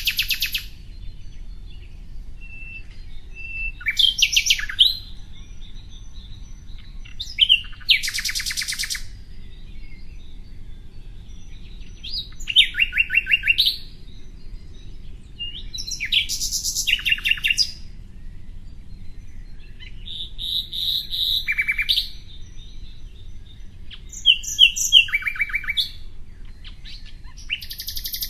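A songbird singing short phrases of quick repeated chirps and trills, one phrase every three to four seconds, over a faint low steady hum.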